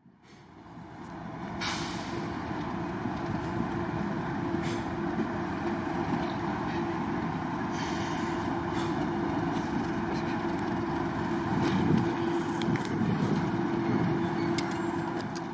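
Heritage diesel locomotive running, a steady engine drone with a held note, fading in over the first two seconds. A few sharp metallic clicks and knocks sound over it.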